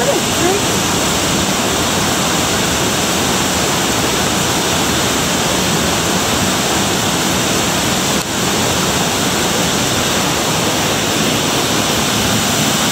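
Steady loud rush of a waterfall, water pouring without a break, with a brief dip about eight seconds in.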